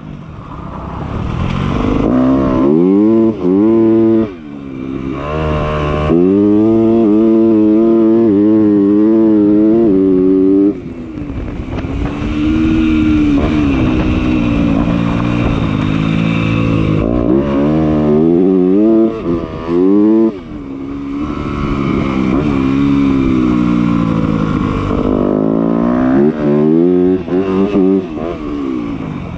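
Dirt bike engine revving hard under way, its pitch climbing and falling again and again as the rider works the throttle and gears. The throttle is chopped briefly several times, about 4, 6, 10 and 20 seconds in, before the engine picks up again.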